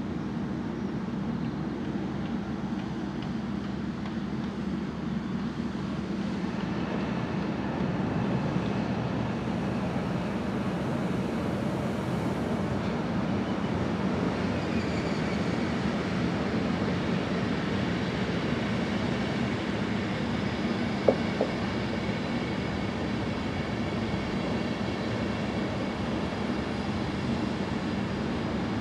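Locomotive-hauled passenger train rolling past on the tracks below, a steady rumble of wheels on rail that grows slightly louder as the coaches go by. One sharp click about two-thirds of the way through.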